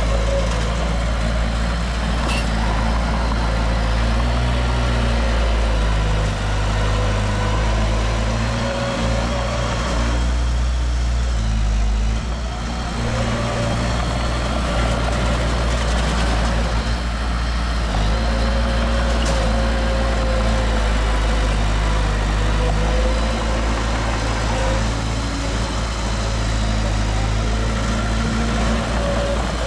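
Heavy diesel engine of earthmoving machinery running steadily. Its note changes a little, and it eases off and quietens briefly about ten to thirteen seconds in before picking up again.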